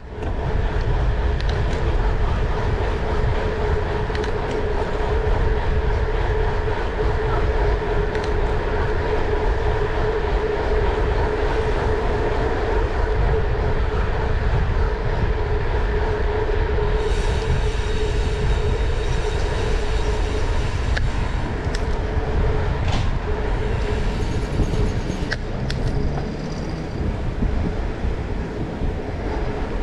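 Steady low rumble and noise of a running vehicle or machine, with a constant hum underneath. Faint high-pitched hissing and a few sharp clicks come in about halfway through.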